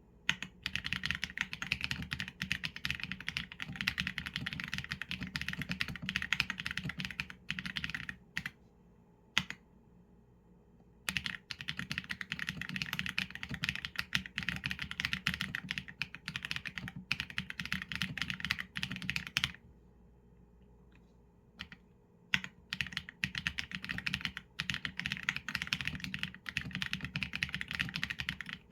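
Typing on a Qsenn A75 mechanical keyboard with Leobog Graywood v4 linear switches and PBT keycaps: fast, continuous keystrokes in runs, with brief pauses, the longest about twenty seconds in.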